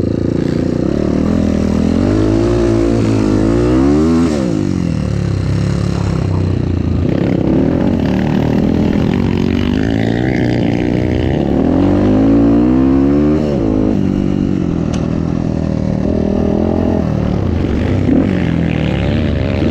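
Motocross bike's engine running on the road, its pitch climbing with the throttle and dropping back through gear changes, twice building to high revs.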